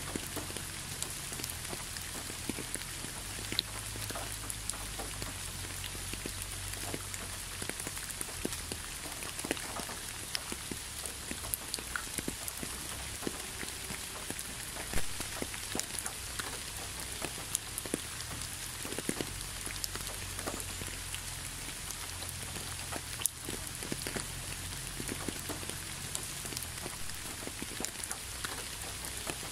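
Gentle steady rain falling onto leaves and a road, with many single drops ticking close by over the even patter; one drop lands louder about halfway through.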